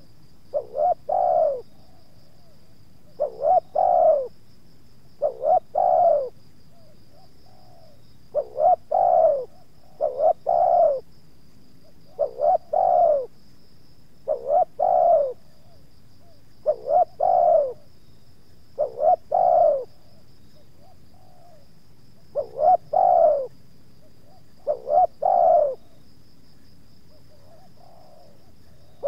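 Spotted dove (tekukur) cooing over and over, a short phrase of quick notes ending in a longer arched coo about every two seconds. A faint steady high whine runs underneath.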